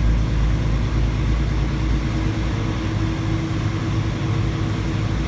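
Semi truck's diesel engine running steadily at low speed, a constant low hum heard from the cab.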